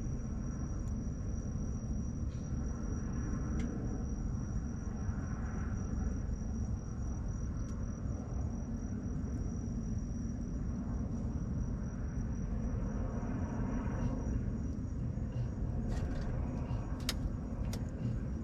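A wood bonfire under a steady low rumble, with a steady high insect trill above it. There are occasional sharp crackles from the burning wood, several close together near the end.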